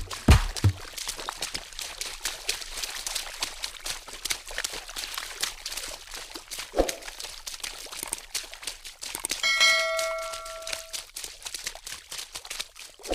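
Rapid light clicking and rattling throughout, with a single thump about seven seconds in. About nine and a half seconds in, a bell-like ding rings for about a second and a half.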